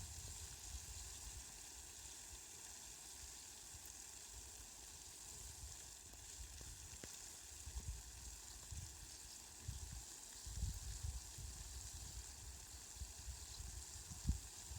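Steady fine rain hiss, light and even. Irregular low rumbles come and go under it, more often in the second half.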